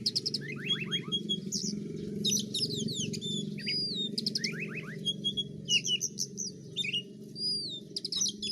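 Oriental magpie-robin (kacer) singing a fast, varied song of whistles, chirps and trills, with twice a quick run of falling notes, over a steady low hum.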